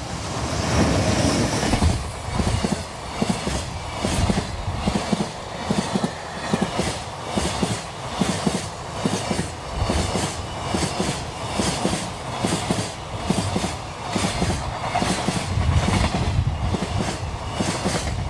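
JR Freight EH500 electric locomotive passing at speed, followed by a long string of container wagons. Their wheels make a steady rhythmic clatter on the rails, about one and a half beats a second, over a continuous rumble.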